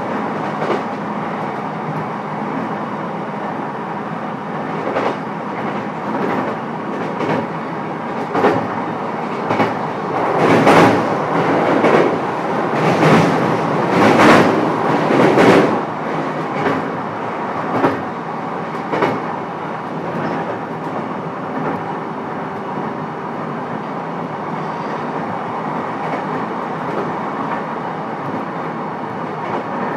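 Running sound heard inside a JR East E129 series electric train: a steady rumble of the moving train with wheels clicking over rail joints, the clatter coming thicker and louder between about ten and sixteen seconds in.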